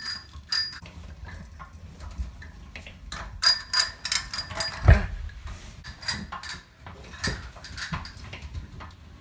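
Irregular sharp metallic clicks and small dings, each ringing at the same few high pitches, like a small metal object being knocked or clinked over and over, with one dull thump about five seconds in.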